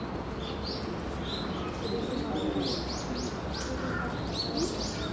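Small birds chirping in quick short notes, coming thicker from about two seconds in, over a steady low background noise.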